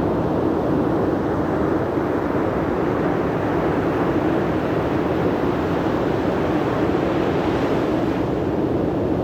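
Steady, unbroken rushing noise of sea and wind at the shore, strongest in the low-middle range and holding one level throughout.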